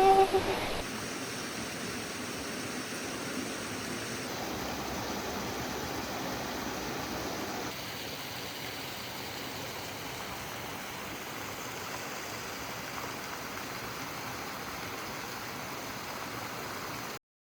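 Steady rush of flowing water from a mountain stream, with small sudden changes in level about 1, 4 and 8 seconds in. It cuts off abruptly just before the end.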